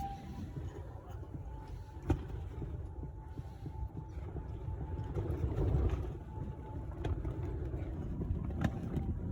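Strong gusting wind buffeting the microphone, a low uneven rumble, with a couple of sharp clicks.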